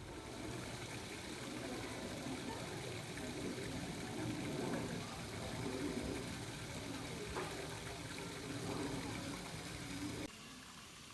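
Water running steadily, a rushing splash that starts suddenly and cuts off suddenly about ten seconds in.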